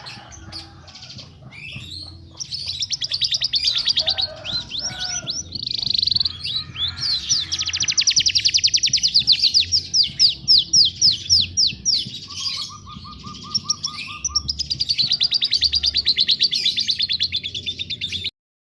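Small songbirds singing high-pitched, fast rolling trills and rapidly repeated chirps, with a short lower trill about two-thirds of the way through. The song cuts off abruptly near the end.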